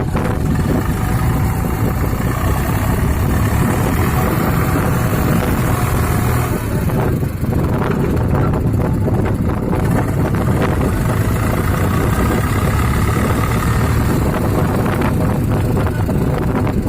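Eicher 368 tractor's diesel engine running hard and steadily while pulling a loaded trolley, with some brief rattling in the middle and near the end.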